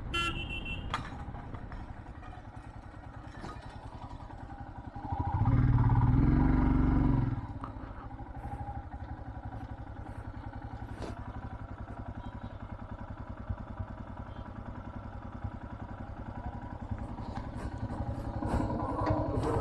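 Motorcycle engine running steadily while riding, with road noise. About five seconds in, a much louder low rumble lasts for about two seconds, then drops back.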